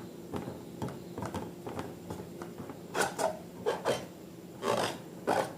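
Slime being squeezed and worked by hand: irregular short crackles, several in quick succession about three seconds in and again near the end, over a faint steady hum.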